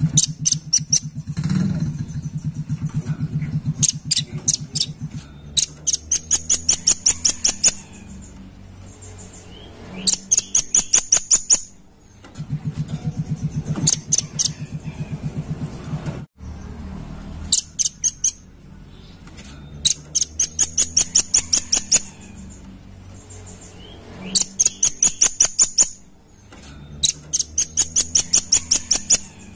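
Velvet-fronted nuthatch (red-billed nuthatch) calling in fast, high trills of sharp chips, each run lasting one to three seconds and repeating every few seconds. A low hum sits under some of the runs.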